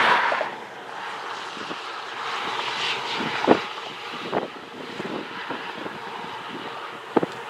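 Wind rushing across the microphone as a steady noise, with a few sharp knocks: the loudest about three and a half seconds in, another soon after, and one near the end.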